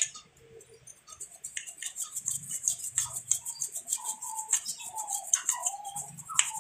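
Birds chirping: a rapid, even run of high chirps, joined in the second half by a few lower, slightly falling calls.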